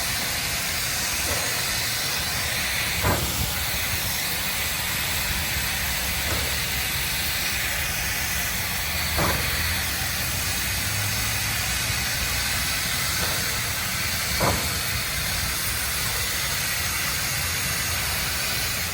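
Steam locomotive 1309, a 2-6-6-2 Mallet, hissing steam steadily. Four brief knocks come through the hiss, a few seconds apart.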